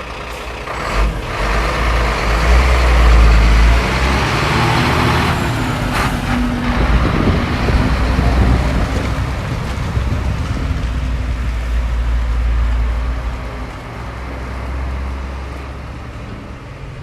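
Scania P114 340 lorry's six-cylinder diesel engine running loudly. It is strongest in the first few seconds, has short sharp bursts about a second and six seconds in, and settles quieter near the end.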